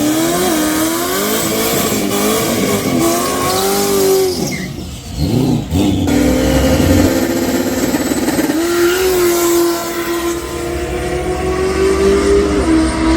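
A car engine revving hard, its pitch climbing and falling several times, dipping briefly about five seconds in, then held high and steady for about four seconds before dropping near the end.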